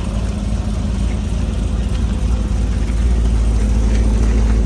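A car engine and exhaust running with a steady low rumble, growing louder about three seconds in.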